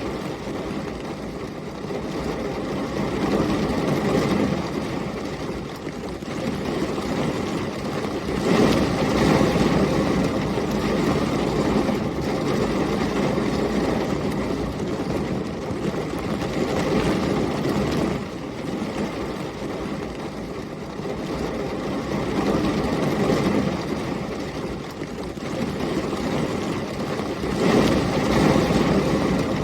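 Heavy rain and storm wind making a continuous low rumble with a rain hiss on top. The rumble swells louder about eight seconds in and again near the end.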